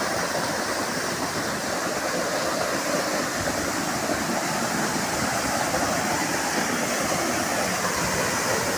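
Waterfall falling steadily onto rocks, a constant rushing roar of water with no change in level.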